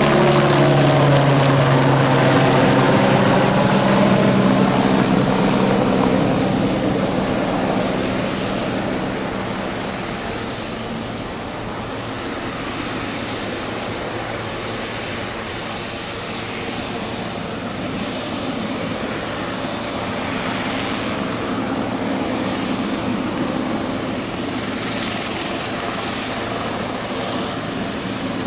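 Aerospatiale AS355F2 Ecureuil 2 twin-turbine helicopter passing close by, its rotor and turbine sound dropping in pitch as it goes. About 8 to 10 seconds in it fades to a quieter, steady, more distant drone.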